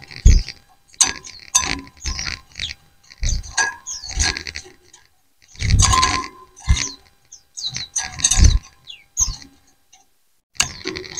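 A flock of white-eyes (pleci) chirping and answering one another in quick bursts of high, twittering notes, with short pauses between the bursts and a few low thumps underneath.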